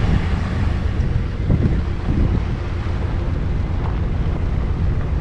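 Van driving, a steady low rumble with wind buffeting the microphone.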